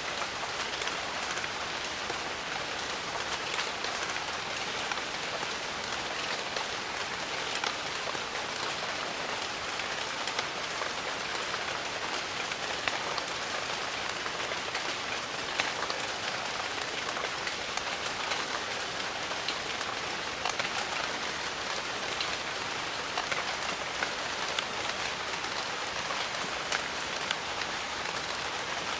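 Steady rain falling on jungle foliage: a dense, even hiss of rain with many individual drops pattering through it.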